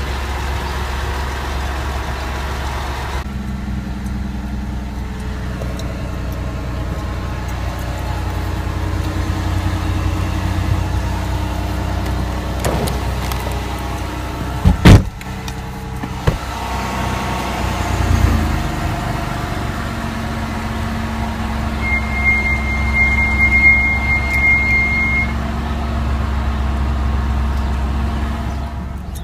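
Ford Escape driving with a steady low rumble from engine and road, and a loud knock about halfway through. Near the end the brakes squeal once, a steady high-pitched tone lasting about three seconds.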